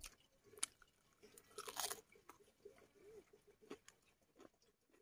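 Faint close-up eating sounds: a person chewing and crunching food, with a few sharp clicks and one louder crunch about two seconds in.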